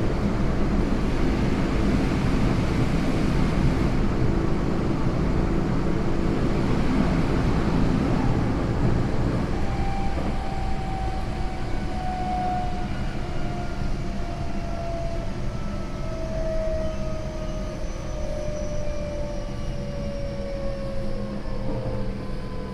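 Inside a Tokyo Metro 08 series train car in motion: steady rumble of wheels and running gear on the rails. From about ten seconds in, the whine of the Mitsubishi IGBT inverter and traction motors rises out of the noise and falls steadily in pitch as the train slows under braking, the overall noise easing off with it.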